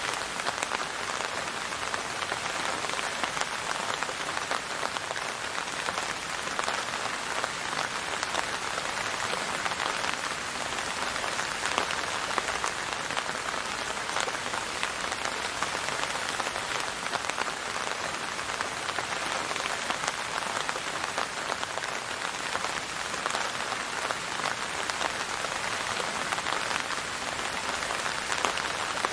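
Steady rain falling and pattering on a surface, a dense even patter of many small drops without let-up.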